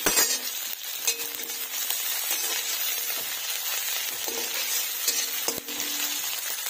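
Chopped onion and capsicum sizzling steadily in hot oil in an iron kadhai, stirred with a metal spatula that scrapes and clinks against the pan a few times, most sharply right at the start.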